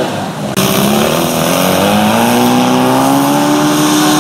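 Volkswagen Beetle off-roader's engine revving up under throttle, its pitch climbing steadily after a brief dip about half a second in.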